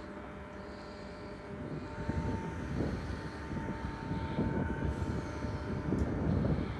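TER regional train pulling out of the station. Its low rumble builds about two seconds in, with a steady high whine over it.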